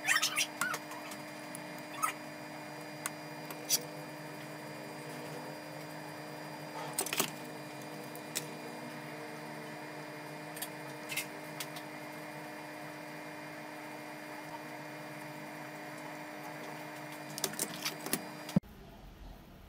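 Steady electrical hum with scattered sharp clicks and taps, a cluster of clicks near the end, then the hum cuts off suddenly.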